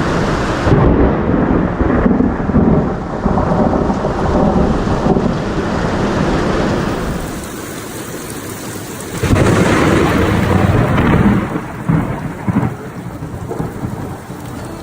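Thunderstorm: rain with rolling thunder, easing briefly and then swelling into a louder rumble about nine seconds in.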